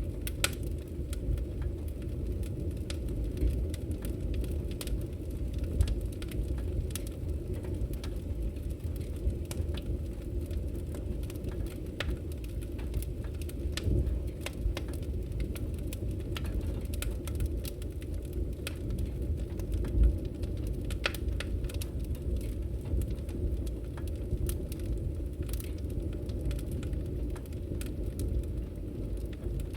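Firewood burning: a steady low rumble of flame with frequent, irregular sharp crackles and pops.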